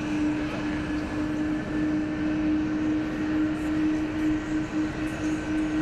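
Jet airliner engines running, a steady noise carrying one strong low whine that creeps slightly higher in pitch, with fainter higher tones above it.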